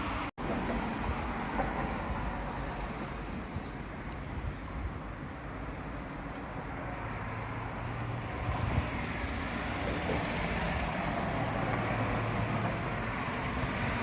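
Wind blowing across the microphone ahead of a thunderstorm: a steady rushing rumble, heaviest in the low end, with a brief break in the sound just after the start.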